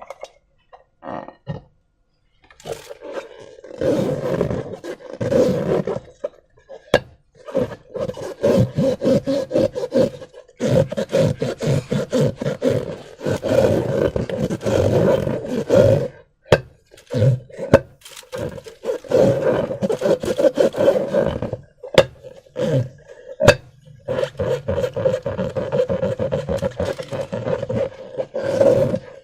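Rubber balloon buzzing and squeaking as it is squeezed and handled: long rough stretches at one steady pitch, broken by short pauses and a few sharp clicks.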